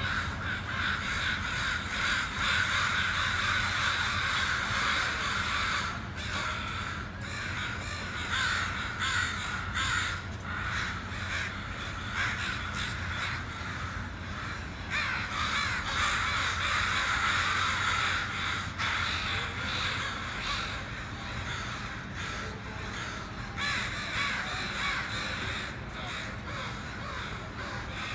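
A large flock of crows, about sixty birds, cawing continuously, many calls overlapping into a dense chorus that thins briefly now and then.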